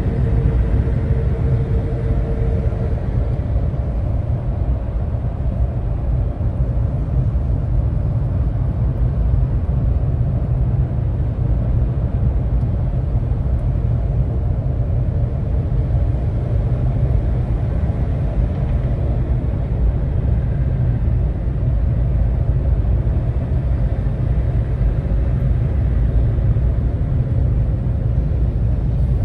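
Vehicle engine and road noise while driving in slow traffic: a steady low rumble, with a faint steady tone in the first few seconds.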